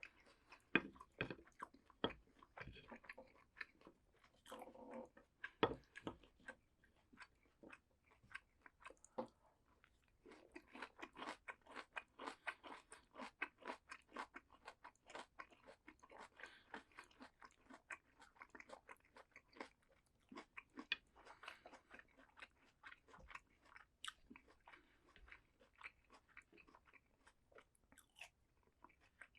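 Close-miked chewing of crisp raw vegetables: sharp crunches in quick runs, sparser in the first third and then dense and continuous.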